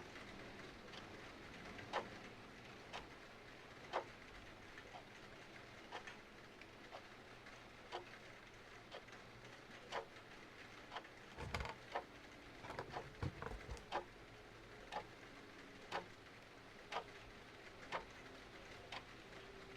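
Clock ticking about once a second over a steady hiss of rain, with a short run of fireplace crackles and pops near the middle.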